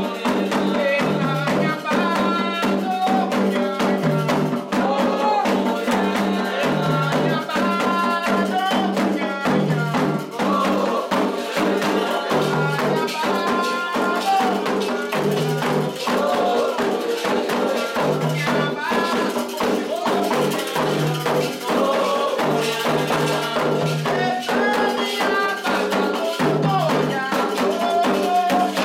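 Candomblé ritual music: atabaque hand drums keep a steady repeating rhythm, with a shaken rattle, and voices singing over it.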